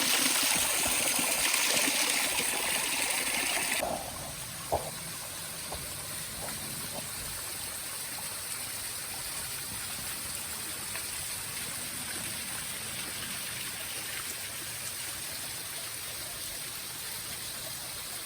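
Waterfall and stream water rushing steadily. It is loud at first and drops suddenly about four seconds in to a softer, even rush, with a single click shortly after.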